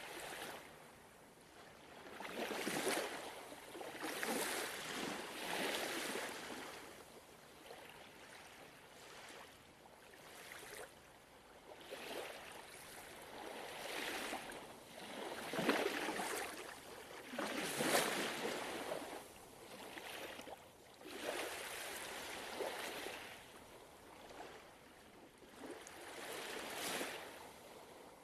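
Small ocean waves washing and breaking on a shore, a rushing hiss that swells and fades every few seconds, some surges stronger than others.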